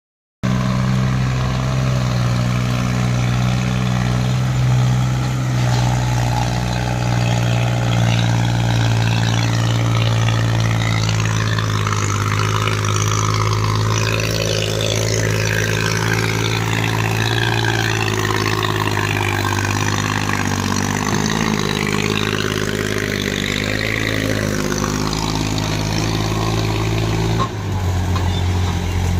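New Holland tractor's diesel engine running steadily under load, its low note dropping suddenly near the end.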